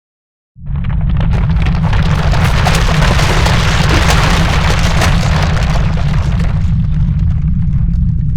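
Earthquake rumble: a loud, deep, continuous rumble that starts suddenly, with a dense crackling, rattling noise over it. The crackling thins out near the end while the rumble carries on.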